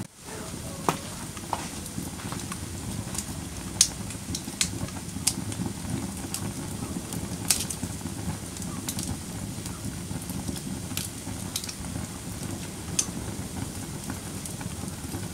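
Fire burning in a fireplace: a steady low rumble of flames with sharp, irregular crackles and pops, the loudest about four seconds in.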